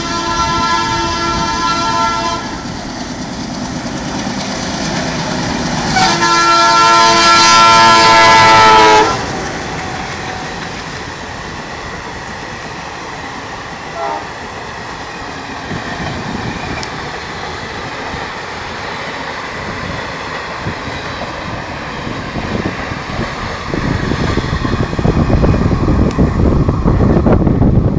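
Indian Railways express train running through a station: its electric locomotive sounds its horn twice, a first blast of about two seconds, then a longer, louder one about six seconds in. The coaches then roll past with a steady rumble and rail clatter, which grows into a louder rushing noise near the end.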